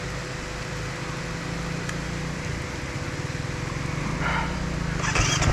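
Dual-sport motorcycle engine running at low speed, a steady low rumble that gets louder over the last second or so.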